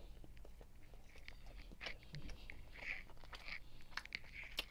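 Close-miked chewing of a forkful of brown stew chicken and rice: faint, irregular mouth clicks and smacks, over a low steady hum.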